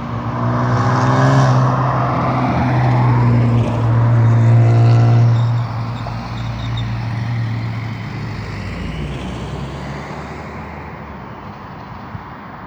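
Scania Solar single-decker bus's diesel engine accelerating away, its pitch rising in the first second and again about four to five seconds in, then dropping and fading as the bus moves off.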